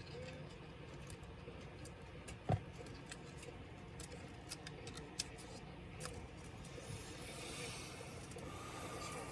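Small clicks and taps of laptop parts and tools being handled, with one louder knock about two and a half seconds in and a rubbing hiss near the end.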